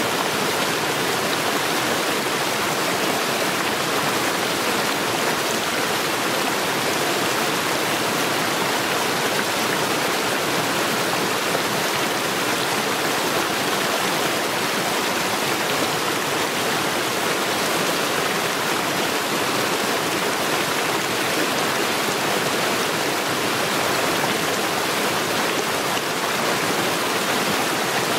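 Mountain stream rushing over stones, a steady, even rush of water.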